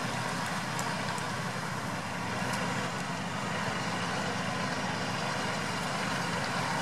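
Off-road 4x4 engine running steadily at low revs, an even low drone with no revving.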